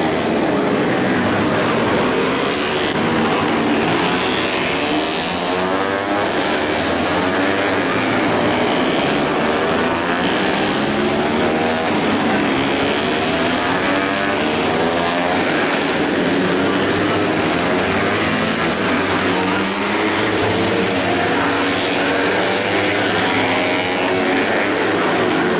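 Several racing motorcycle engines running hard at once, their pitches rising and falling and overlapping as the bikes accelerate and shift around the circuit.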